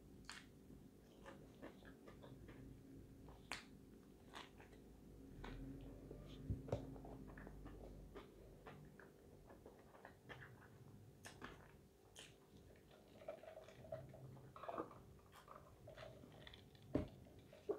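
Faint close-up chewing of fast food (burger and breaded chicken nuggets), with soft wet mouth clicks and smacks scattered irregularly, a couple of them sharper. A faint steady hum lies underneath.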